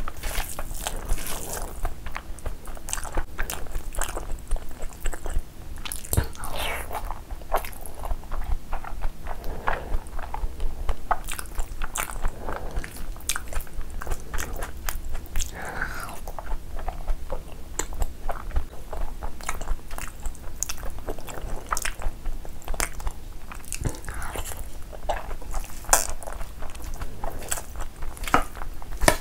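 Close-miked chewing of a mouthful of spicy mutton curry and rice eaten by hand, with many short crunches and mouth clicks throughout.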